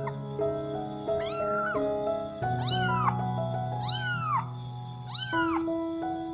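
Angora-mix kitten meowing four times, about once a second, each call rising then falling in pitch: a kitten's separation call for its mother. Background music plays underneath.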